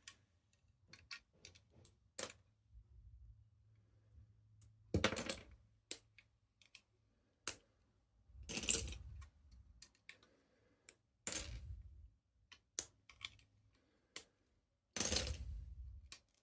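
Plastic Lego pieces being handled: scattered light clicks with four short rattling bursts, the last one the loudest.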